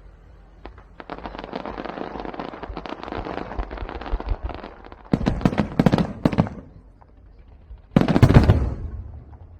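Firecrackers going off: a rapid crackling string of small bangs from about a second in, heavier bangs in the middle, and one loud blast near the end that dies away.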